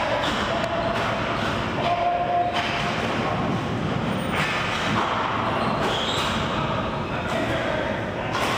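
Hockey game play in a rink: a steady rumble of skating with several sharp knocks of sticks, puck or boards.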